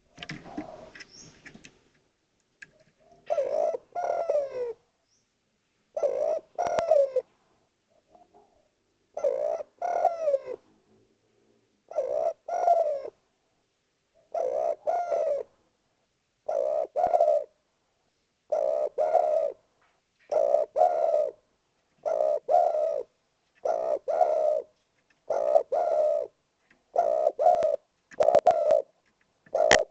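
Spotted dove (derkuku) cooing: short, repeated phrases of a few notes, about a dozen of them. The first comes about three seconds in, and they follow one another more quickly toward the end.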